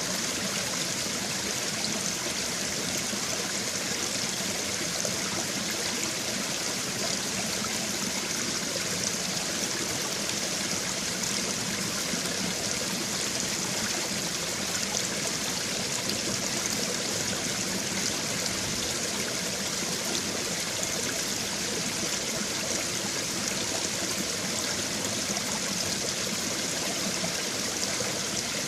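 Babbling brook: shallow stream water running and trickling steadily over stones, an even hissing burble with no pauses.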